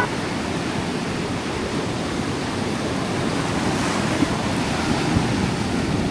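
Ocean surf washing onto a beach: a steady rushing noise, with wind blowing on the microphone.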